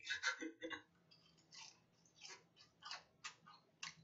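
Chewing a mouthful of oyster: soft, wet mouth smacks and clicks at an uneven pace, quiet throughout.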